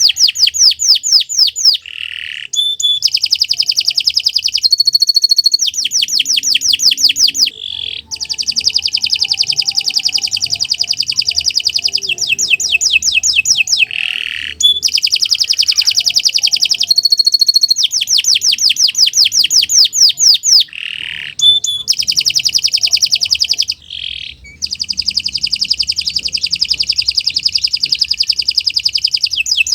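Domestic canary singing long, fast trills: rapid runs of repeated high notes in phrases lasting several seconds, broken by short pauses and a few lower notes.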